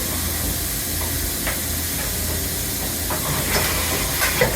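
2009 Okuma MC-V4020 CNC vertical mill running with a steady air hiss and low hum. A few clicks and clunks come near the end, the loudest just before it closes.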